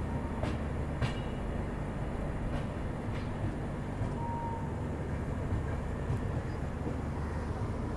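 Double-decker express train's coaches rolling along the track as it pulls into a station, a steady low rumble with a few faint clicks from the wheels over rail joints in the first few seconds, heard from an open coach door.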